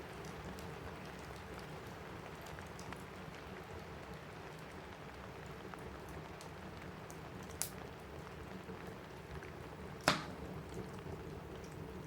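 Steady rain pattering on a cabin roof, mixed with a crackling wood fire in a fireplace: scattered small crackles and two sharper pops, the louder one about ten seconds in.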